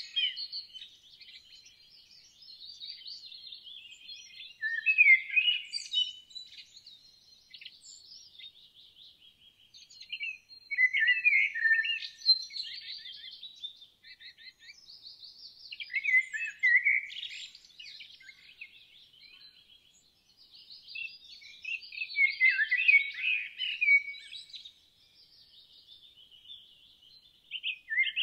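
Songbirds singing: a loud warbled song phrase comes about every five to six seconds, with softer chirping and twittering in between.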